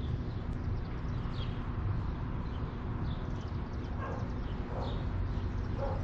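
A flock of small birds, taken for barn swallows, twittering with many short, high chirps over a steady low rumble. A few lower-pitched calls come near the end.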